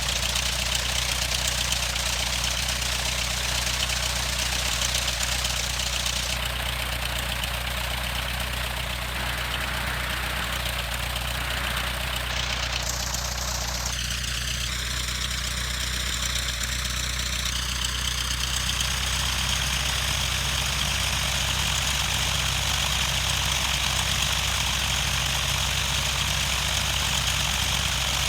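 Cessna 152's four-cylinder Lycoming engine and propeller running steadily at idle, with a steady hiss over it that shifts in tone a few times.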